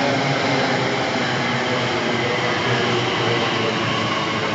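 Class 345 electric multiple unit at the platform, a steady, even hum and rush of its running equipment.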